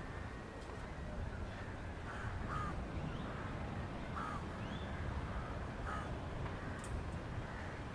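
Short bird calls repeated every second or so, over a steady low outdoor rumble.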